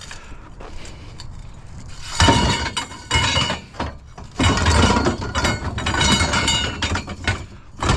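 Steel trampoline frame tubes clanking and scraping against each other as they are handled and shoved into place, in two long bouts of rattling metal strikes with a ringing tone, starting about two seconds in.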